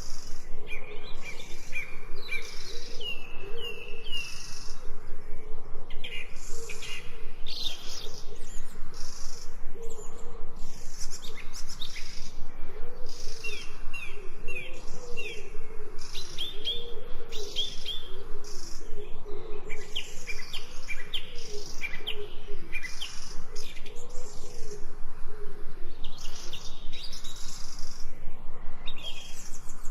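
Several birds chirping and calling together: short high chirps and quick sweeping notes over lower, wavering calls.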